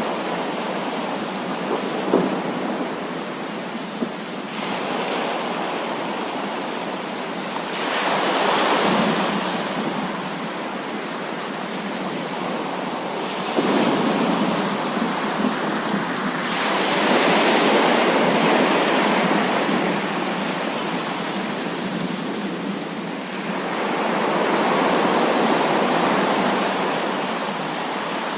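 Heavy rain falling steadily, with thunder rumbling in slow swells about three times.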